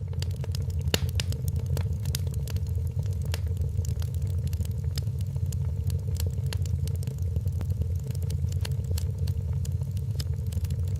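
Wood fire crackling in a fireplace: frequent irregular pops and snaps over a steady low rumble of the burning logs.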